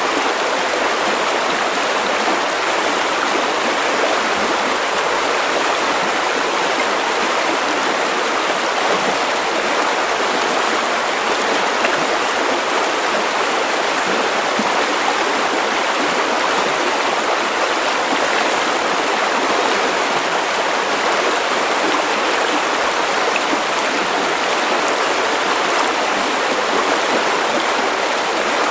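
River water running over stones, a steady even rush of flowing water.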